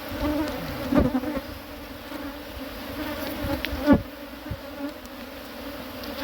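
Honeybee colony buzzing steadily around an open hive. Two sharp wooden knocks, about a second in and near four seconds, come as the hive boxes are set back in place.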